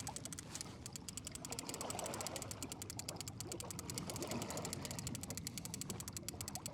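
Fishing reel cranked at a steady pace, its gears and mechanism giving a rapid, even ticking, as a hooked walleye is reeled in with a steady retrieve.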